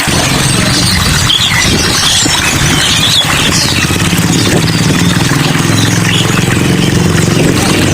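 Many caged songbirds chirping and squealing over a steady hiss, with an engine idling low underneath from about a second in.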